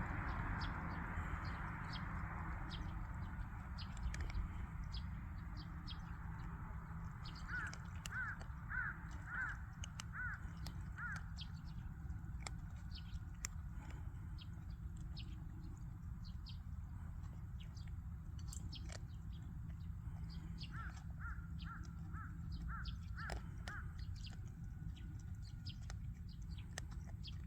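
A bird calling in two runs of about six quick calls each, one about eight seconds in and again about twenty-one seconds in, over a steady low rumble with scattered faint clicks.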